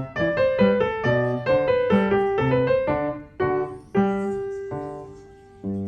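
Background piano music: a melody of struck notes, quick for the first few seconds, then slower with long ringing notes and a fresh chord near the end.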